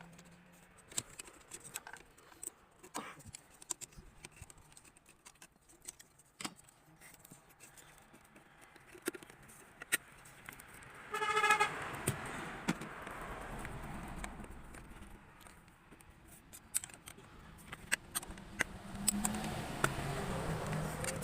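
Scattered light clicks and handling knocks, then a short car-horn toot about eleven seconds in, followed by a few seconds of rushing noise.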